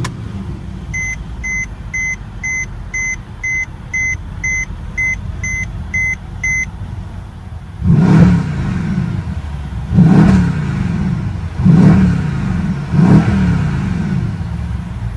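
Mercedes-AMG 5.5-litre biturbo V8 catching with a short loud flare at the very start, then idling while an electronic warning chime beeps about twice a second for some six seconds. From about eight seconds in the engine is revved four times, each rev rising and falling back to idle.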